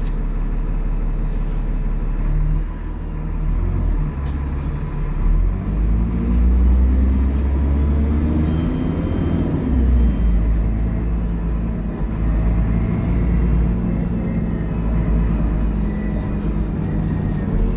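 Dennis Trident double-decker bus's diesel engine pulling under load, its pitch rising for several seconds. About ten seconds in it drops back, as at a gear change, then runs on steadily, with a faint high whine over the heavy rumble.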